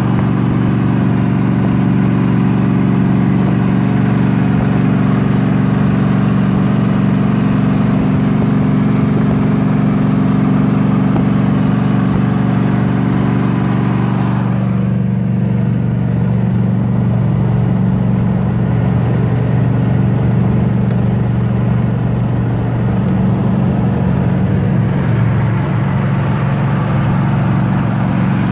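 Car engine and exhaust droning steadily at highway cruising speed, heard from inside a moving car over wind and road hiss. The hiss drops off sharply about halfway through, leaving the low engine drone.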